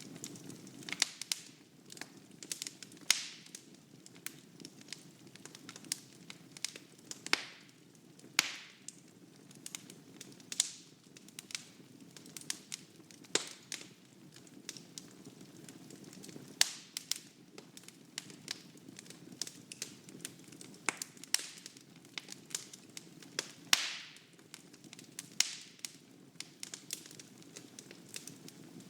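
Wood fire burning in a fireplace: irregular sharp crackles and pops from the burning logs over a soft, steady low rush of flame.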